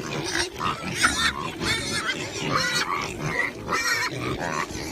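Pig grunting, a rapid run of short calls one after another.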